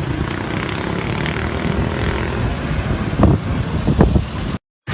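Steady engine drone with a rough, noisy rumble, broken by two sharp thumps about a second apart near the end, then cutting off abruptly.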